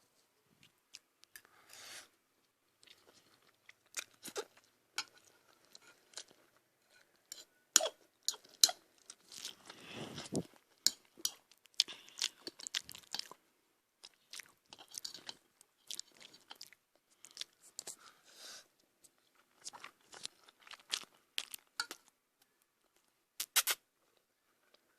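A person chewing and crunching food close to the microphone, with irregular crisp crunches and clicks and short pauses between bites.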